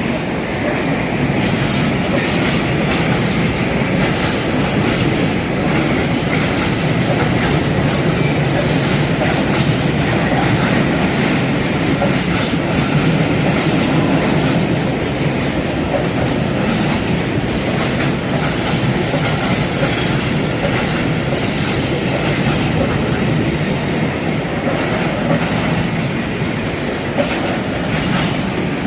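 Freight train rolling past, its wheels clacking over rail joints, with faint high wheel squeals about two-thirds of the way through.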